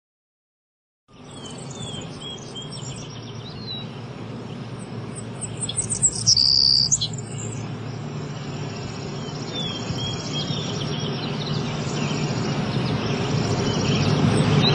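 Small birds chirping over outdoor ambience, starting about a second in, with a loud high call about six seconds in. Underneath, a low steady rumble slowly grows louder toward the end.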